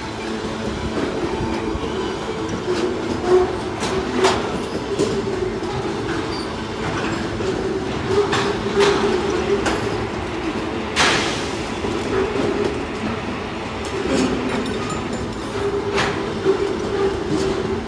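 Freight train wagons rolling past, steel wheels clattering over the rails with irregular sharp knocks, the loudest about eleven seconds in, over a steady wavering whine from the running gear.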